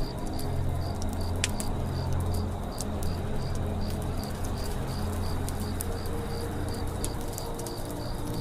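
Campfire crackling with scattered sharp pops over a low steady rumble, while a cricket chirps evenly, about four chirps a second.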